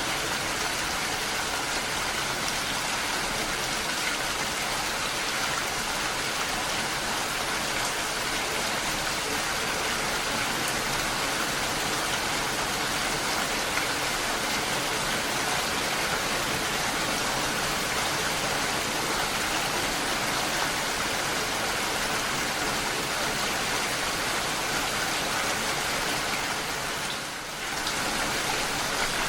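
Steady rain falling, an even hiss of drops, with a brief dip in loudness near the end.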